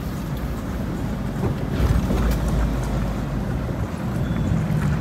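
An off-road 4x4's engine running with a heavy low rumble from the vehicle driving over a rough dirt track. The rumble swells about two seconds in.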